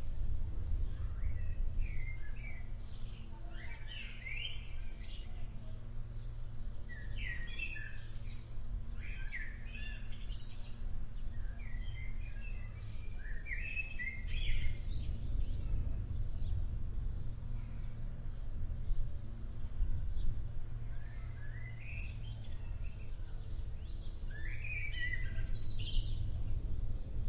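Songbirds chirping and calling in short clusters every few seconds, over a steady low rumble.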